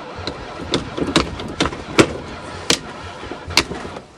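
Chrysler van's engine being cranked on ether spray, turning over with a low rumble and about half a dozen sharp, irregularly spaced cracks, but not catching.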